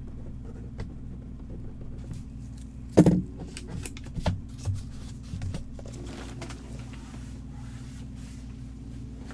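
Handling noises from items being moved on a table: one sharp knock about three seconds in, then a few lighter taps and rustles, over a steady low hum.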